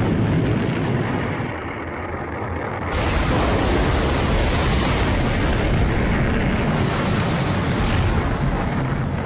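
A rocket roaring in a continuous loud rumble. About three seconds in it cuts abruptly to a brighter, hissier recording of the same kind of roar.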